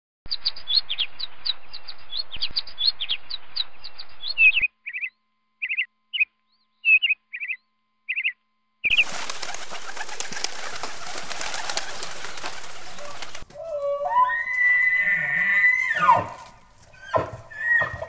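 A run of separate animal sound clips: quick high bird chirps, about four a second, for the first four and a half seconds, then a few scattered chirps with silence between; then several seconds of dense rustling noise; then an elk bugling, a whistle that rises, holds high and drops, with a second shorter call near the end.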